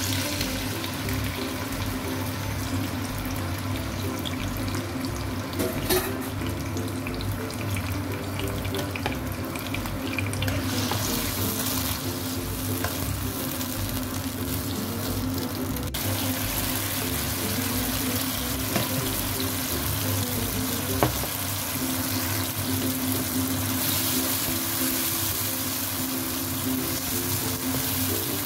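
Diced tomatoes sizzling steadily in hot oil in a nonstick wok as they are stirred with a plastic spatula, with a few light knocks of the spatula. Background music with a stepping bass line runs underneath.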